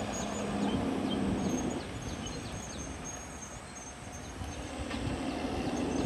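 CAT D6R XL bulldozer's diesel engine running under work, with a steady hum that eases off about two seconds in and builds again near the end. Faint high chirps of birds or insects sound over it.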